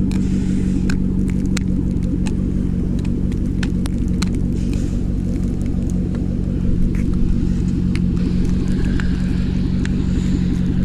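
Chevrolet Corvette V8 idling steadily while it warms up on a cold morning, with scattered light clicks over it.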